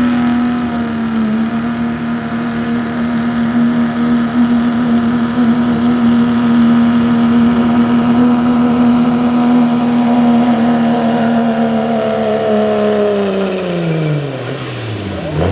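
A pulling truck's engine held at high, steady revs under full load, with a high whistle above it; near the end the revs and the whistle drop away quickly as the throttle is let off.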